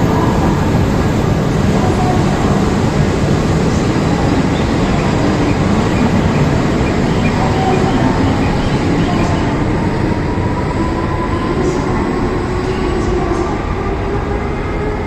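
Running noise of an E5 series Shinkansen heard inside the car: a steady rumble and rush that slowly grows quieter. In the second half a faint whine slowly rises in pitch.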